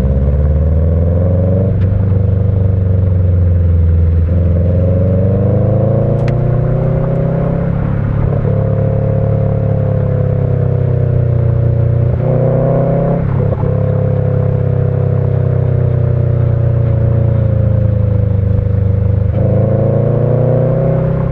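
Subaru EJ20 turbocharged flat-four with stock unequal-length headers and a Kakimoto Regu.06&R muffler, giving the uneven boxer rumble. The engine note climbs and falls with the throttle and is broken by about six short breaks as the five-speed manual is shifted.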